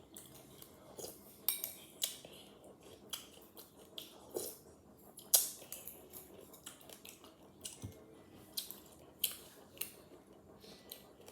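Spoon clinking and scraping against a bowl of fruit cereal in irregular sharp clicks, the loudest a little past five seconds in.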